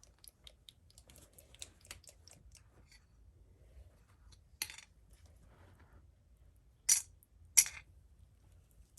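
Small plastic toy dishes and pieces being handled: light clicking and tapping, a sharper click midway, then two loud clacks close together near the end, as pieces are set down on a toy table.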